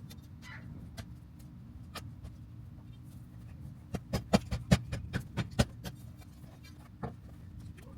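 A quick run of about ten sharp knocks, hard objects striking, lasting under two seconds about halfway through, with a few single clicks before and after, over a steady low hum.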